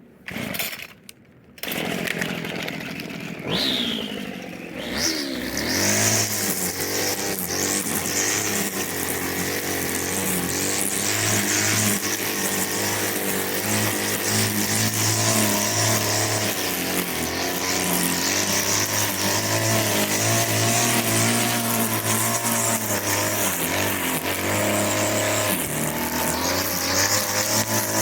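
Small two-stroke engine of a Homelite string trimmer starting and running, its speed falling about 4 seconds in and then holding a steady drone with slight rises and dips. It cuts off near the end.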